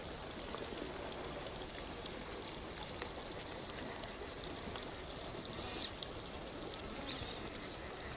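Steady rush of running water, with a brief high-pitched chirp about five and a half seconds in.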